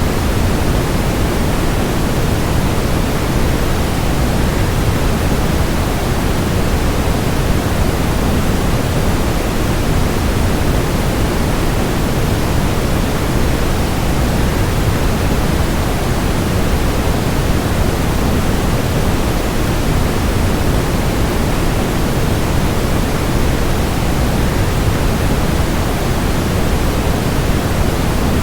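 Waterfall rushing steadily, an even, unbroken noise weighted toward the low end.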